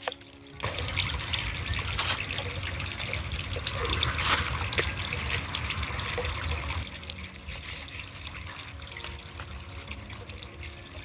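Chopped garlic sizzling in hot oil in a pan over a wood fire. The sizzle starts suddenly about half a second in, stays strongest for the first several seconds, then settles to a quieter steady frying, with small crackles throughout.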